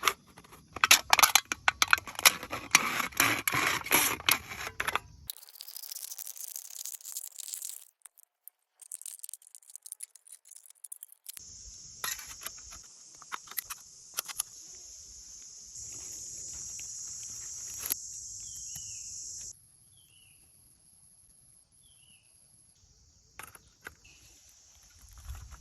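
Forest ambience: insects drone steadily at a high pitch, with a few short falling bird chirps in the last part. It opens with several seconds of dense crackling and clicking handling noise, then a rising hiss and a quieter stretch.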